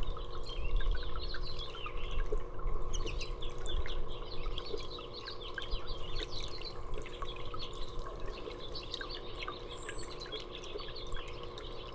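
Small songbirds chirping and twittering in quick, overlapping short calls, with water dripping.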